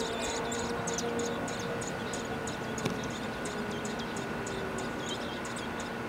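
Birds chirping in quick, high, short notes, over a faint steady tone.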